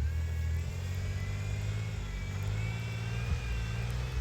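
Pickup truck engine held under throttle at fairly steady revs, with a thin high whine over it, as the truck sits stuck in snow with its wheels spinning.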